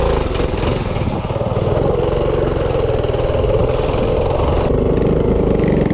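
Minibike engine running under throttle, its pitch holding fairly steady.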